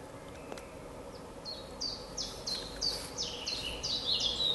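A songbird singing: from about a second in, a fast run of short, high notes that each slide downward, about three a second, the run stepping lower in pitch toward the end.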